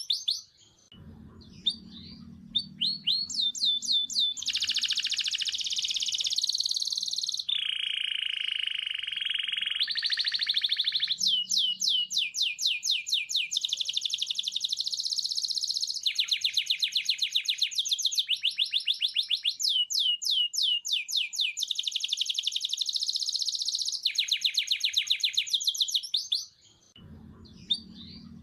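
Birdsong: fast runs of high, downward-sliding chirps, about ten a second, in phrases that start and stop abruptly, with a brief quieter spell and a low hum near the start and again near the end.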